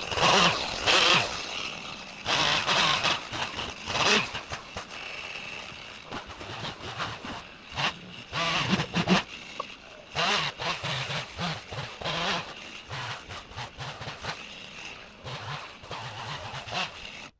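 Chainsaw revving in irregular bursts, on and off the throttle while cutting, cut off suddenly at the end.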